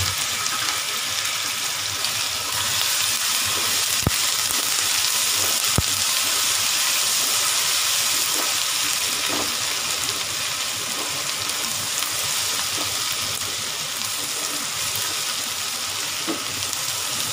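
Ginger-garlic paste and browned onions sizzling in hot oil in a wok while being stirred with a spatula. Two sharp clicks sound about four and six seconds in.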